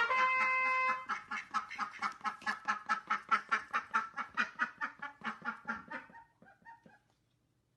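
A held trumpet note ends about a second in. Then comes a rapid run of short animal calls, about five a second, fading out after about six seconds.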